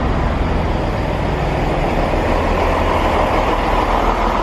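Chiltern Railways diesel train running: a steady rumble with a rushing noise that swells a little in the middle.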